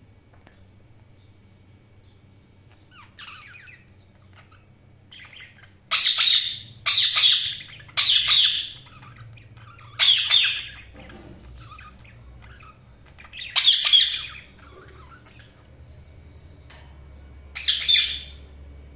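Budgerigars giving loud, harsh squawking calls, several in quick succession from about six seconds in, then spaced out, with quieter chatter between.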